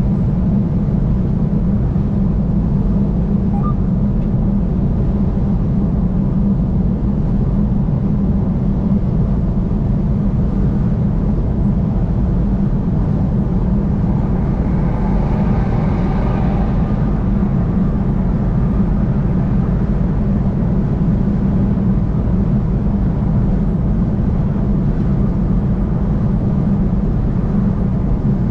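Steady low rumble of road and engine noise from a vehicle driving on a highway, with a brief swell of higher rushing noise about halfway through.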